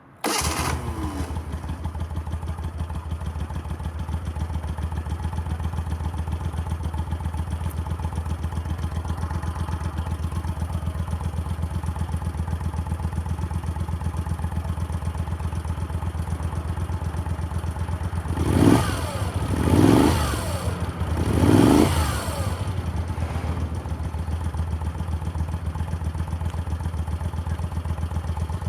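1983 Moto Guzzi V35C's air-cooled 90° V-twin, breathing through SITO silencers, fires up on a cold start and settles into a steady, even idle. About two-thirds of the way in the throttle is blipped three times in quick succession, each rev rising and falling back to idle.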